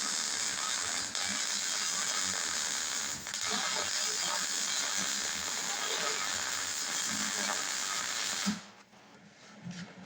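Stick welder arc burning steadily with an even crackling hiss while running a weld bead on 3/4 inch steel plate, cutting off abruptly about eight and a half seconds in when the arc is broken.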